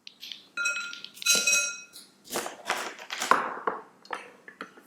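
A spoon clinking against a bowl twice with a short ring, then several scraping strokes as ingredients are stirred or scraped in the bowl.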